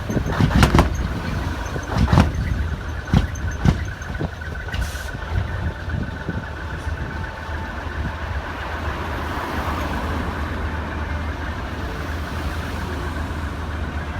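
Large diesel truck engine with a black-smoke muffler, giving a few sharp, loud blasts in the first four seconds and then running with a steady low rumble.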